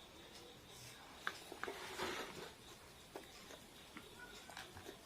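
Quiet eating sounds from a meal of fried chicken and rice: scattered small clicks and taps, with a brief rustle about two seconds in.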